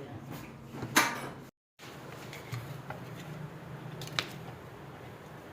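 Workshop sounds of work on an engine: one sharp knock about a second in, a brief gap in the sound, then a few light clicks over a low steady hum.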